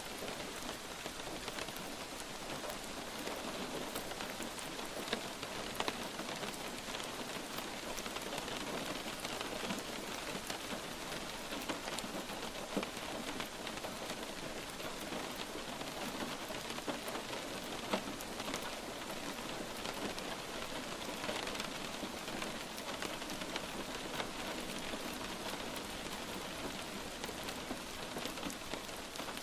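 Light rain falling steadily, an even patter with many small individual drops ticking, a few of them a little louder.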